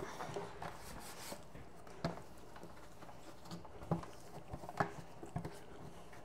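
Scattered light knocks and clinks of food containers and shelf parts being handled and set down inside a refrigerator, a sharp tap every second or so.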